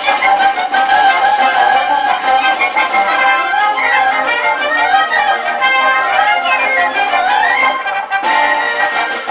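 A band playing live, led by brass instruments carrying a melody, with a brief break in the phrase about eight seconds in.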